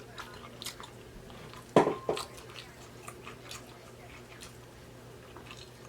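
A person chewing food with small wet mouth clicks. About two seconds in there is one sharper, louder knock with a brief ring, followed by a smaller one.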